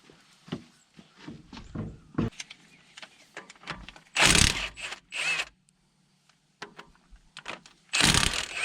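Metal tools and parts knocking and clanking while a truck's rear axle hub is worked on, followed by two loud, noisy bursts about four and eight seconds in.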